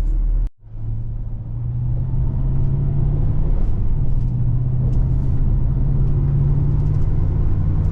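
Car engine and road noise heard from inside the cabin while driving, with a steady engine hum over a low rumble. The sound cuts out briefly about half a second in, then comes back.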